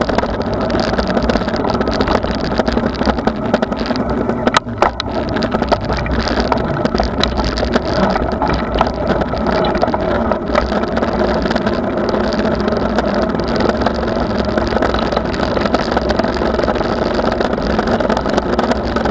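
Steady rumble of a bicycle ride picked up on the rider's camera: wind and tyre noise with no letup, and one sharp click about four and a half seconds in.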